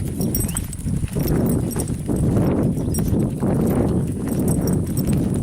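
Footsteps walking on a paved path, with a steady low rumble on the microphone.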